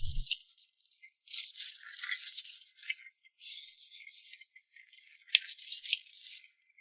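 Close-miked crisp crackling and rustling from an eating session, in bursts about a second long with a few sharp clicks. It is thin and high, with no low end.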